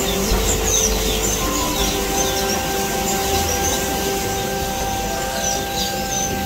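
Small birds chirping, many short high calls scattered throughout, over a steady background hiss and a few long held tones.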